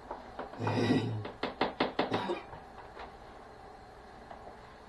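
A short low hum of a voice, then a quick run of about six sharp knocks in a second and one more a moment later: kitchenware knocking on a bowl or countertop.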